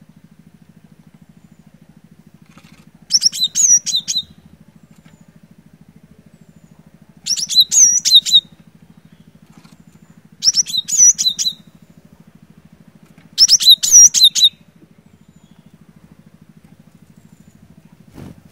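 Cinereous tit singing: four short phrases of rapid, high repeated notes, each about a second long, coming every three to four seconds. A steady low hum runs underneath.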